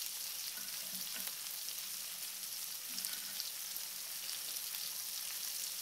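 Shrimp frying in a butter-and-olive-oil marinade on a hot grill pan, a steady high sizzle with a few faint ticks.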